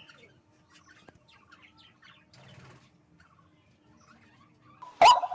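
Faint scattered bird chirps. Near the end, loud harsh calls start, repeated in quick succession.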